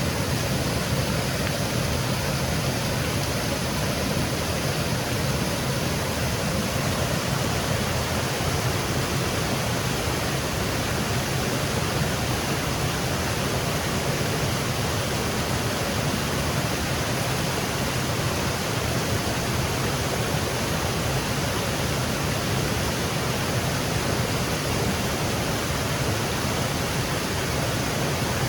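Small waterfall cascading through a wooded gorge: a steady, unbroken rush of falling water.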